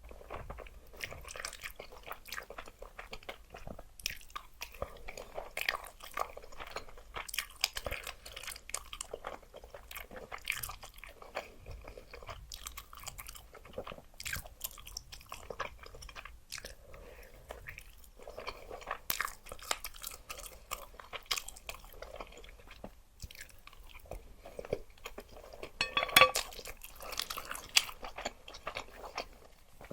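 Close-miked chewing of spicy luosifen noodles: a steady run of irregular wet mouth clicks with crunchy bites mixed in, and one louder burst near the end.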